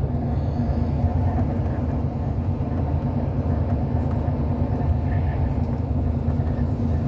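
Hyundai Universe Space Luxury coach heard from inside the passenger cabin while driving: a steady low rumble of engine and road noise with a faint constant hum.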